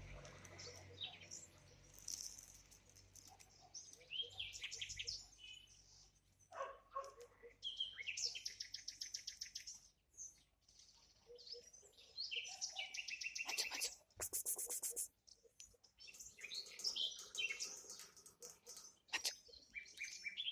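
Small songbirds singing and chirping in repeated bursts of high, rapid trills and short calls, with a brief burst of noise about two-thirds of the way through.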